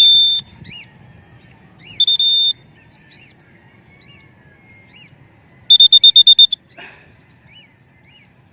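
A cockatiel calling with loud, high, flat whistled notes: one at the start, one about two seconds in, and a quick string of about eight short notes near six seconds. Faint rising-and-falling chirps repeat about twice a second underneath.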